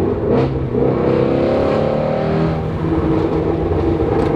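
Ford Shelby GT350R's 5.2-litre flat-plane-crank V8 accelerating: the revs climb for about two seconds, then fall back and settle. A sharp exhaust pop comes about half a second in and another right at the end.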